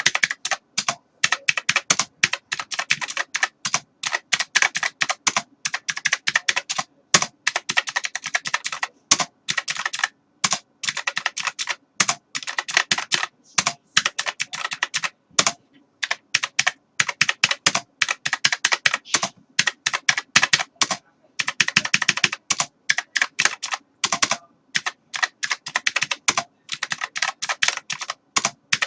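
Computer keyboard being typed on: quick runs of key clicks in irregular bursts, with short pauses between runs.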